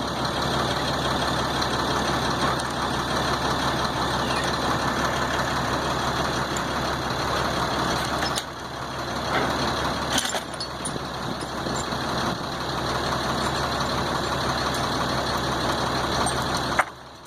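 Large engine idling steadily, with a couple of sharp knocks about halfway through. The sound drops away abruptly just before the end.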